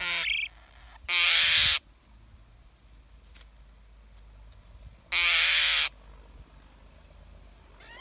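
Three loud, harsh bird calls at a tree-hole nest, each under a second long: one at the start, one just after a second in, and one about five seconds in.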